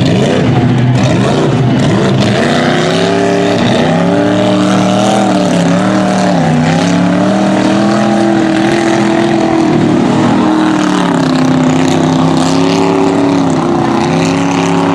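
Mud truck's engine running hard under heavy throttle, its pitch rising and falling again and again as the revs swing up and down.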